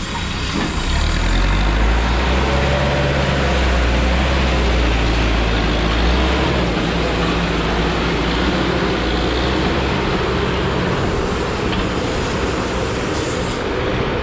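Busy street traffic noise, with a motor vehicle's engine running close by, strongest in the first half and fading after about eight seconds.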